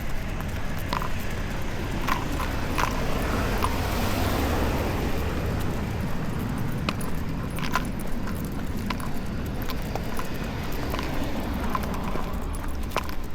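Light metallic jingles and clicks at an irregular walking pace, from dog leash and collar hardware, over a steady low rumble of street traffic that swells briefly about four seconds in.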